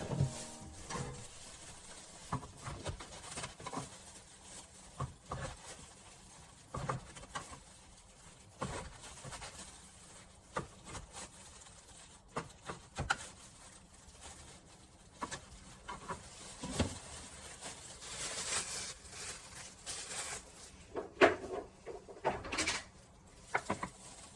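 Scattered light clicks and knocks of kitchen items being handled, irregular and sparse, with a louder cluster of knocks near the end.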